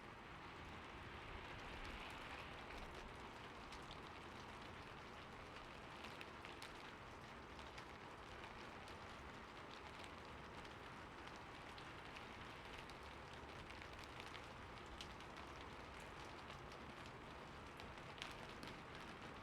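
Steady, soft rain, a continuous hiss with many small drop ticks scattered through it.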